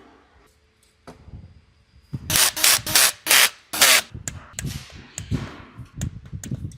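Workshop tool sounds: a run of five or six short, loud rasping bursts about two seconds in, followed by scattered clicks and knocks of metal parts being handled.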